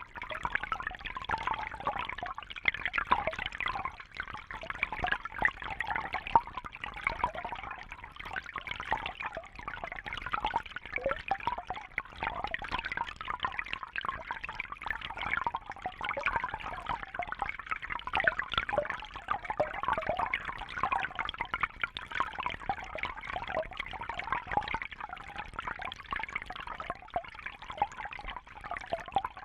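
Water trickling and splashing steadily, a continuous patter of many small splashes and drips.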